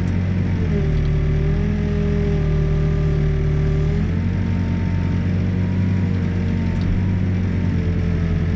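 Backhoe's diesel engine running steadily under digging load, with a higher whine above it that steps and glides in pitch a few times as the hydraulics work.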